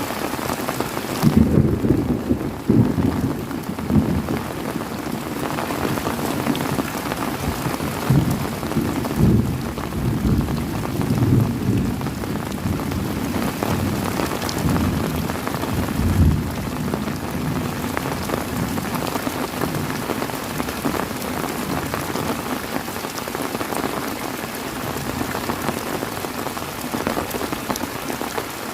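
Heavy rain falling steadily, with a long roll of thunder rumbling underneath from about a second in. The thunder swells several times and dies away after about seventeen seconds, leaving only the rain.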